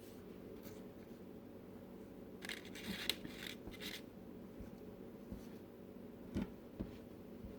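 Faint rustling and scraping of parchment paper on a baking tray as pieces of cut dough are set in place, loudest a few seconds in, with two light knocks near the end over a steady low hum.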